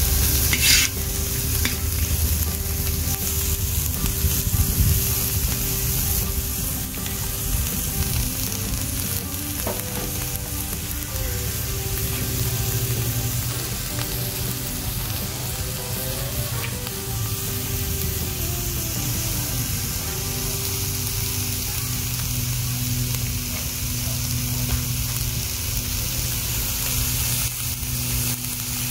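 Shredded carrots, onion and green onion sizzling steadily as they fry in hot grease in a large wok. A metal slotted spoon stirs and scrapes the wok briefly about a second in.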